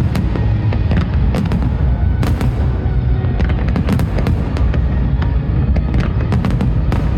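Fireworks display: a dense low rumble of booms, with many sharp cracks and bangs from bursting shells clustered about a second and a half in, around two seconds in, and again near the end, over accompanying music.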